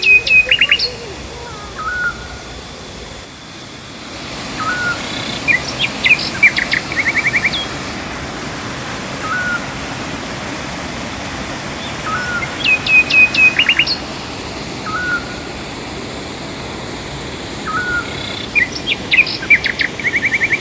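A songbird repeating the same phrase about every six seconds: a quick run of high notes ending in a fast trill, with short rising whistles in between. Under it runs the steady rush of a waterfall.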